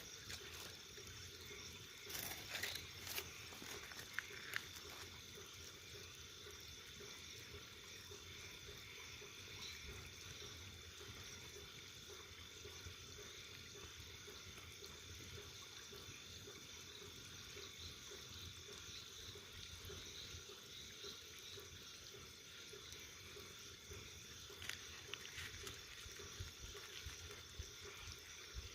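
Bonfire burning softly: a faint steady hiss with a few crackles and pops about two to four seconds in and again near the end.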